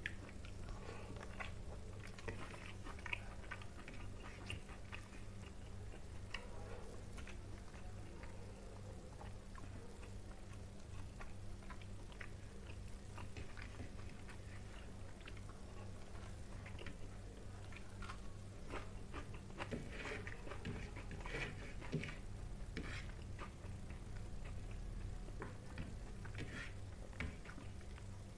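A person eating rice and spicy pangas fish by hand: chewing with irregular wet clicks and smacks, and fingers mixing rice on the plate, more frequent in the second half, over a steady low hum.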